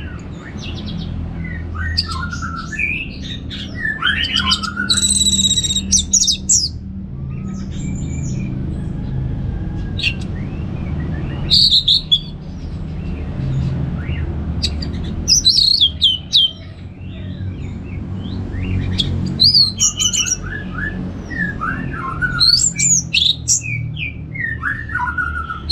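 Orange-headed thrush singing: bursts of varied, quick whistled phrases with short pauses between them. A steady low hum runs underneath.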